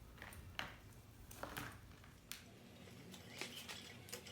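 Faint rustling and a few scattered light clicks from hands working the lawnmower's starter rope while tying a knot in its end at the recoil starter.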